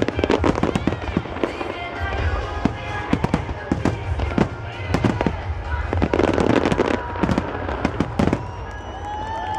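Fireworks display: a rapid run of shells bursting in sharp bangs and crackles, with a heavier burst about six seconds in. Music and voices sound faintly underneath.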